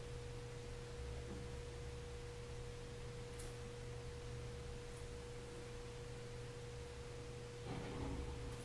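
Faint steady electrical tone in the recording: one unwavering mid-pitched whine over a low hum, with a couple of faint ticks.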